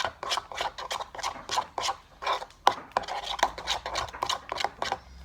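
Homemade slime mixture being stirred with a utensil in a container: quick repeated scraping and clicking strokes, about three or four a second.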